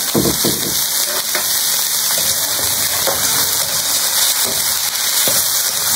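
Chicken pieces sizzling in a hot aluminium wok, a steady hiss, with a metal ladle scraping the pan as they are stirred.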